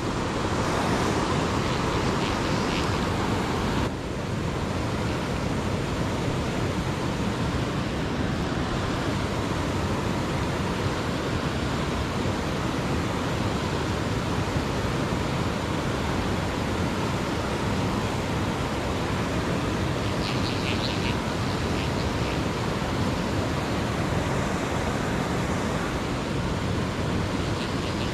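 Steady rush of a rain-swollen waterfall and its fast current, with the level dropping slightly about four seconds in and a few faint clicks later on.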